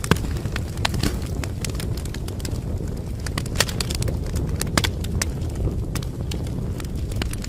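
Wood fire crackling: irregular sharp pops and snaps over a steady low rush of the flames.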